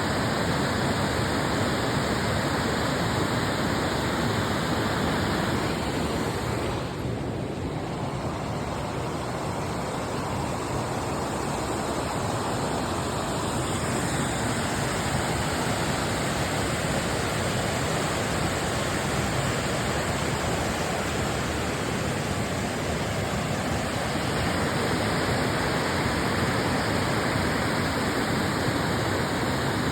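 River water rushing in a steady, full hiss; the higher part of the hiss thins briefly about seven seconds in.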